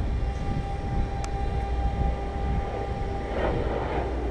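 A steady mechanical hum over a low rumble, with a single sharp click about a second in and some handling noise near the end.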